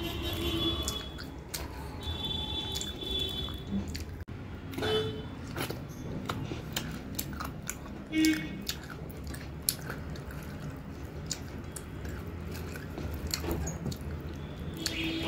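Close-up eating sounds: a person chewing rice and thin chicken curry, with many small wet clicks and squelches from the mouth and from fingers squishing the rice on the plate.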